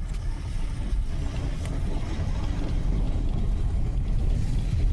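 Low, steady rumble of a freight train rolling past.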